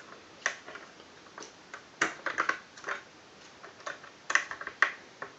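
Scattered, irregular light clicks and taps from the plastic toy jigsaw and its parts being handled.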